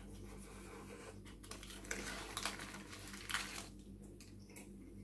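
Close-up chewing of a mouthful of chicken doner kebab, with a run of paper rustling from about a second and a half to three and a half seconds in as the kebab is set down on its paper wrapper. A low steady hum runs underneath.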